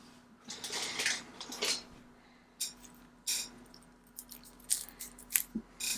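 Light handling sounds of watchmaker's tools and small parts on the bench. A soft rustle comes about a second in, then a handful of separate sharp clicks of tweezers and tools being picked up and set down.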